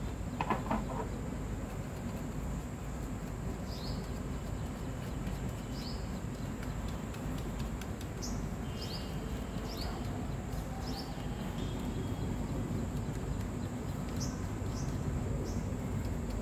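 Birds chirping in short, high, downward-sweeping notes, about a dozen scattered singly and in pairs, over a steady low background rumble. A brief squeak about half a second in is the loudest moment.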